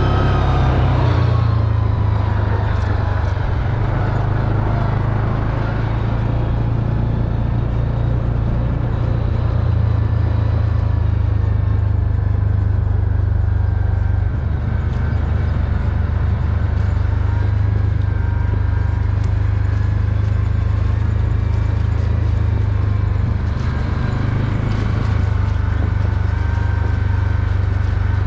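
A four-wheeler (ATV) engine running steadily while riding, its pitch easing down in the first second or two and then holding level.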